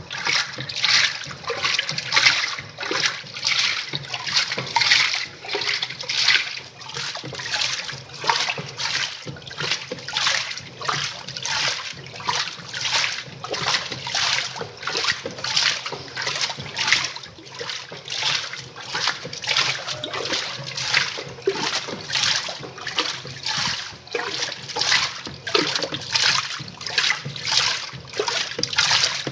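Semi-automatic 'faz tudo' washing machine agitating its load, water sloshing in an even rhythm of about two strokes a second over the low hum of its motor.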